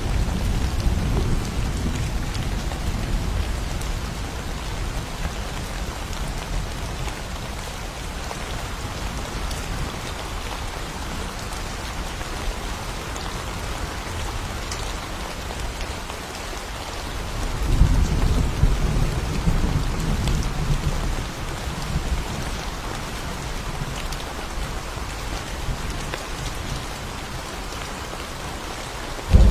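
Steady rain from a thunderstorm, with low thunder rumbling that fades over the first few seconds. A second roll of thunder comes a little past halfway and dies away after a few seconds.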